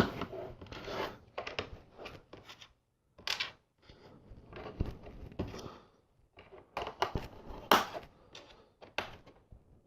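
Plastic LEGO bricks clicking and clattering as they are handled and fitted together, in irregular sharp clicks, the loudest a little before eight seconds in.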